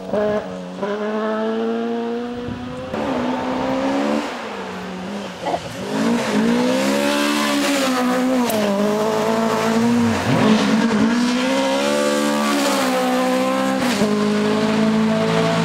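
Toyota Corolla GT rally car engines revving hard, the pitch climbing and dropping again and again with gear changes and lifts off the throttle. The sound changes abruptly a couple of times as it cuts between cars.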